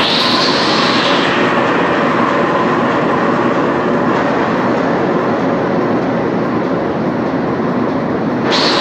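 Freshly repaired diesel engine running loud and steady, with a higher hiss rising over it for about the first second and again just before the end.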